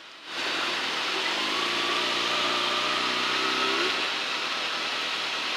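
Sport motorcycle engine pulling while riding, under a steady rush of wind on the helmet camera's microphone. About a second and a half in, the engine note climbs gently for a couple of seconds, then falls away.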